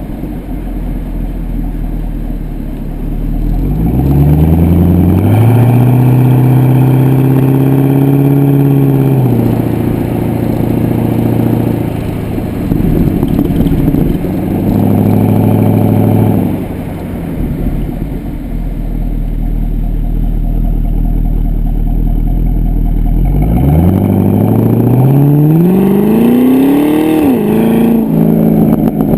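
Pontiac G8 GXP's LS3 V8 through a Corsa cat-back exhaust, heard at the tailpipes: a low rumble, then the revs climb and hold steady for several seconds before dropping away. After a lower rumbling stretch the revs climb again, peak and fall off near the end.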